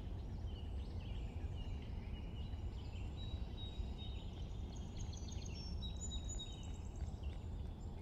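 Several songbirds chirping and singing over a steady low background rumble, with thin high whistles held for about half a second and quick, very high trills in the second half.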